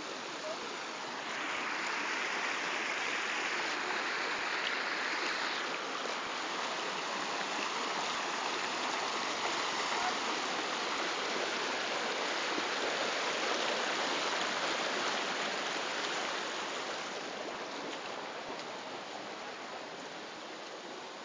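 Floodwater rushing in a steady roar of water, louder through most of the middle and easing toward the end.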